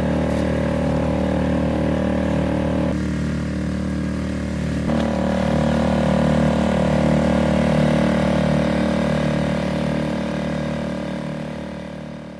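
Boat motor running steadily, with a slight shift in its note twice, fading out near the end.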